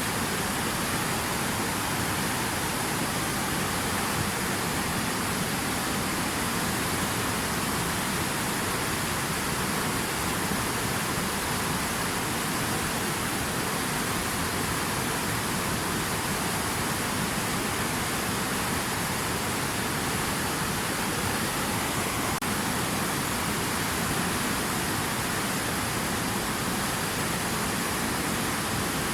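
Steady rushing water, a dense even hiss without breaks or changes.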